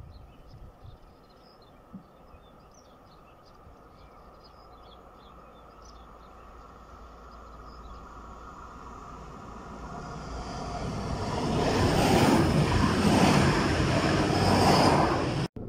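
Alstom Coradia Liner regional train approaching along the line and passing close by. Its noise builds slowly over several seconds from faint to a loud, full rush of running gear and wheels on rail, then cuts off suddenly. Faint chirps are heard at first, before the train gets close.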